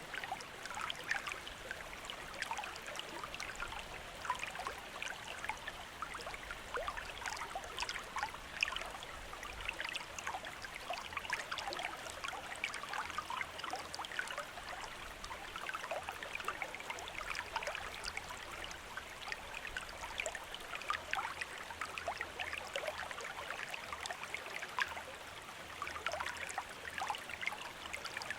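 Small river or stream running steadily over rocks: a continuous babbling, trickling wash of water with many small splashes.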